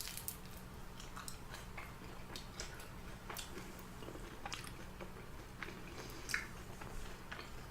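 A person biting and chewing crunchy fried chicken in sweet and spicy sauce close to the microphone: scattered crisp crunches and mouth clicks, still crunchy though sauced.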